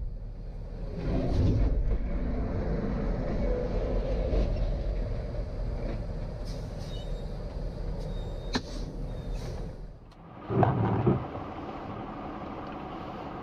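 Vehicle and road noise picked up by a dashcam, with a sharp click about two-thirds of the way through and a short loud thump near the end.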